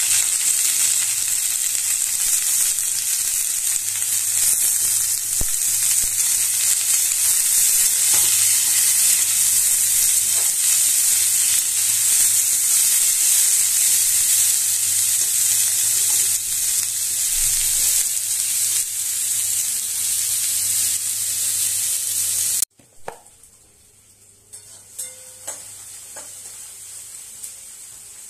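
Sliced mahua fruit and fried onions sizzling in hot oil in a kadhai, stirred with a metal spatula. The sizzling cuts off suddenly about 23 seconds in, leaving much quieter sound with a few light clicks.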